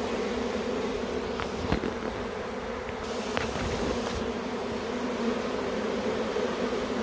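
Steady, dense buzzing hum of a large honey bee colony, many bees flying and fanning around the hive box as they move in. A few faint clicks sound within it.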